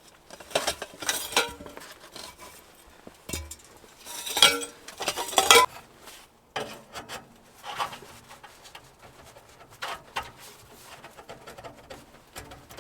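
Clattering and knocking of metal gear being handled, in several irregular bursts, loudest around the middle.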